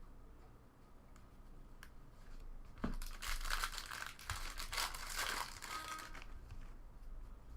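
Foil wrapper of a trading card pack being torn open and crinkled. There is light handling at first, then a sharp snap about three seconds in, then a few seconds of loud crinkling that dies away near the end.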